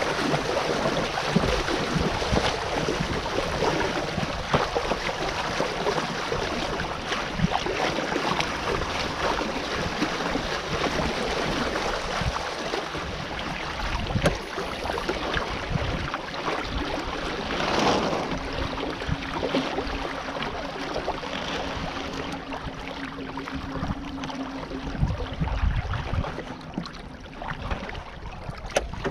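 Water splashing and lapping against the hull of a sailing canoe under way, with wind buffeting the microphone. In the second half a faint steady low hum sounds for about ten seconds.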